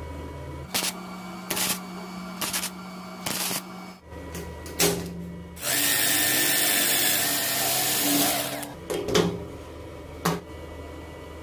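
A power tool working metal: several short bursts, then one loud run of about three seconds starting just before the middle, then two more brief bursts, over a steady low hum.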